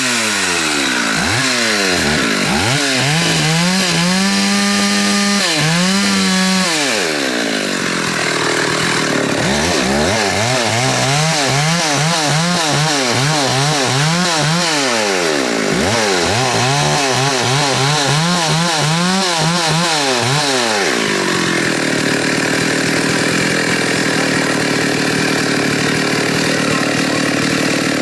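Chainsaw engine revving up and down again and again, held high for a few seconds, then running steadily and rougher for the last several seconds, while large African mahogany trees are being cut.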